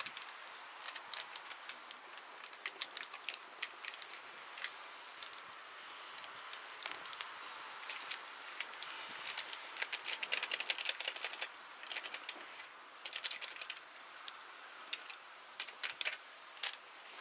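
Wood fire crackling: many small irregular pops and snaps, thickening into quick clusters now and then.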